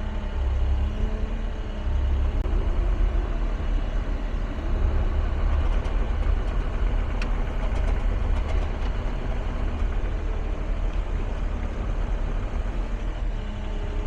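Caterpillar excavator's diesel engine running steadily, a deep, even rumble.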